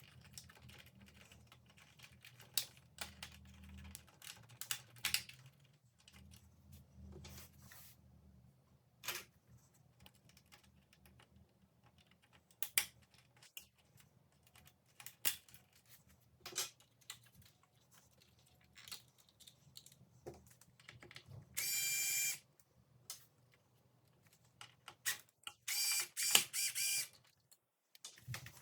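Scattered clicks, taps and knocks of metal tools and parts being handled on a sewing machine under repair. There is a short loud buzzing burst about three quarters of the way through and a rapid cluster of loud rattling bursts near the end.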